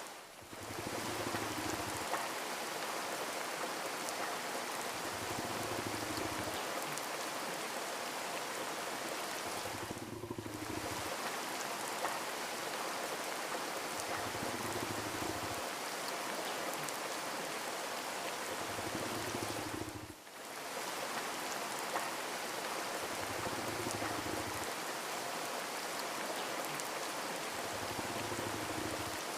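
Steady rain, an even hiss of falling drops, dipping briefly in level about every ten seconds.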